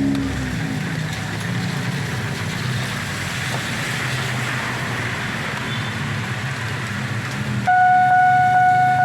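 A vehicle engine drones under a steady hiss. Near the end a loud, steady horn-like tone starts suddenly and holds.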